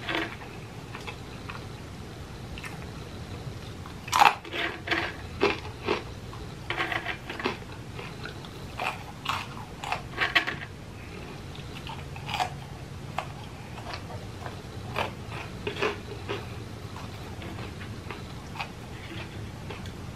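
Close-up chewing and crunching of leftover food crumbs, in irregular bursts with the loudest crunch about four seconds in, thinning out toward the end.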